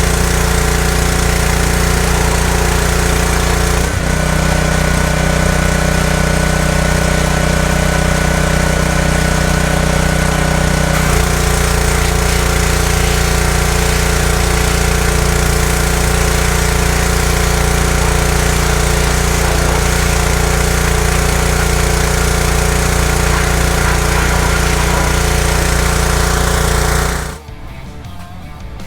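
A steady, loud machine running with a low engine-like hum and a wide hiss, cutting off suddenly near the end. It is used to clean old grime off car parts.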